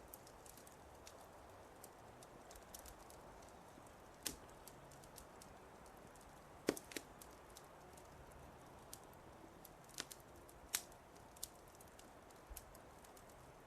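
Wood fire crackling: irregular sharp pops and snaps over a soft steady hiss. The loudest pop comes about halfway through and another strong one about two-thirds through.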